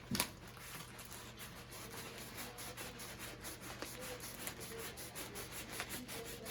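Diamond painting canvas being rolled up by hand: a continuous rubbing and scraping of the canvas and its plastic cover film, with many small ticks and a sharper click just after the start.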